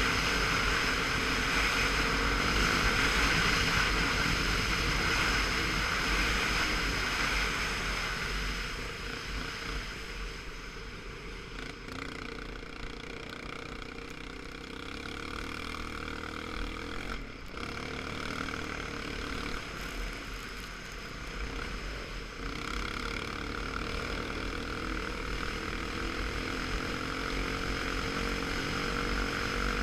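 Motorcycle engine running steadily while riding, with a low wind rumble over the microphone. The engine note shifts a little in pitch partway through, and the sound grows quieter in the middle stretch and louder again near the end.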